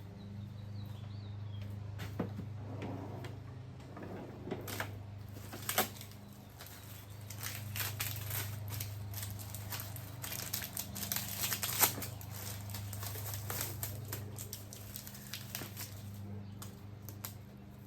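Packaging and papers being handled: irregular crinkling and rustling with small clicks and knocks, busiest in the middle stretch, over a steady low hum.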